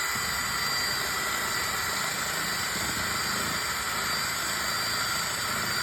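A steady hiss with a faint, even high whine, holding level throughout, of the kind a small motor or power tool makes.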